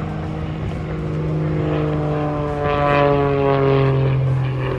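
Propeller airplane flying past overhead. Its engine drone grows louder to a peak about three seconds in, and its pitch drops as it goes by.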